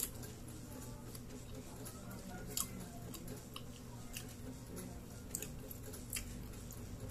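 Close-up chewing of crisp unripe green mango, with scattered sharp crunches over a low steady hum.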